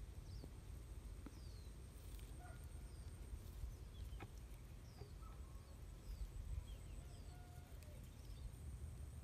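Faint outdoor ambience: small birds giving short, falling chirps every second or so, with a few brief whistled notes, over a steady low rumble of wind.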